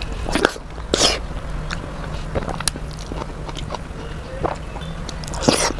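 Close-up eating sounds of soft dal khichdi taken by hand: chewing with small mouth clicks, and three louder short bursts about half a second in, at one second, and near the end, over a steady low hum.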